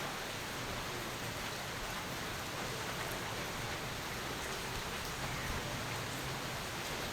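Steady rainfall: an even hiss of rain with faint scattered drops landing on surfaces.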